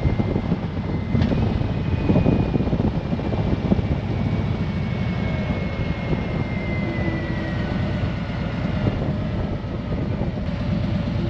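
Harley-Davidson Tri Glide trike underway at road speed: steady engine, tyre and wind noise, with a faint whine falling slowly in pitch through the middle.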